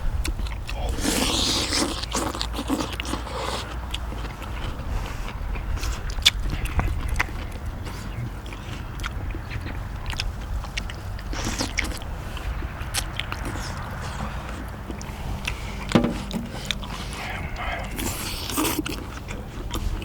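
People chewing and biting into cheese dak-galbi, with scattered small clicks and scrapes over a steady low rumble.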